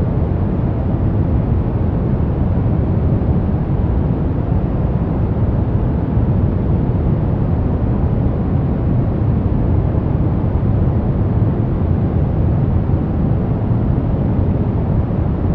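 Continuous white-noise relaxation track, deep rather than hissy: strongest in the low range and fading off toward the highs, with no tones, beats or changes.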